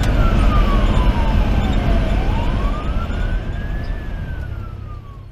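Fire engine siren wailing, its pitch sliding down, back up and down again in slow sweeps, over the steady low drone of a 2010 Pierce Velocity pumper's diesel engine. The sound fades away toward the end.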